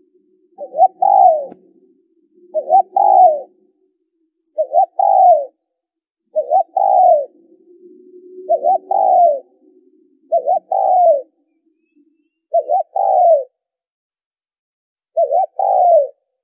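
Spotted dove cooing: a loud two-part coo phrase repeated about every two seconds, eight times.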